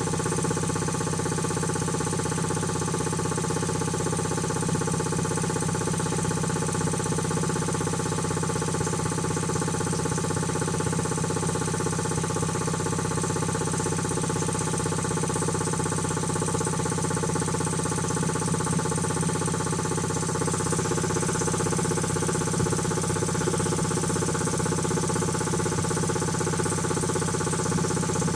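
Quincy QT-5 two-stage reciprocating air compressor pump running steadily on its first run after a rebuild, an even mechanical hum and clatter at constant speed.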